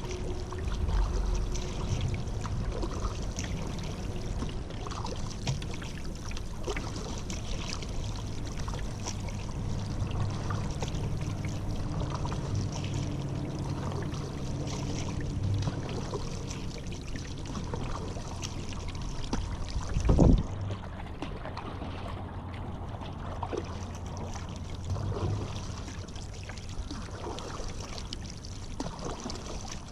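Paddling on a river: paddle blades dipping and splashing, water dripping and trickling, with a steady low hum underneath. One loud thump about two-thirds of the way through.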